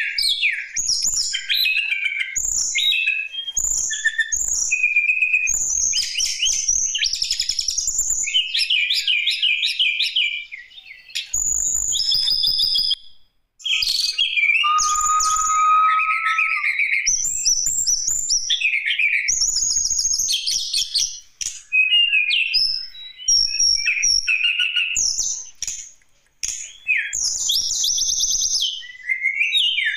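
Tledekan gunung singing a continuous, varied song of rapid chirps, trills and whistled phrases, with short pauses between phrases.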